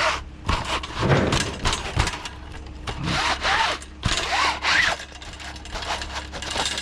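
Items being handled and shifted: rubbing and scraping with a string of knocks and clatters, and a few short squeaks a few seconds in, over a steady low hum.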